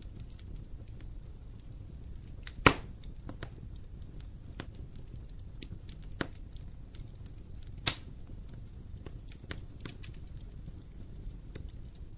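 Wood fire crackling in an open fireplace: a low steady rumble of the flames with scattered sharp snaps, and two louder pops, one near three seconds in and one about five seconds later.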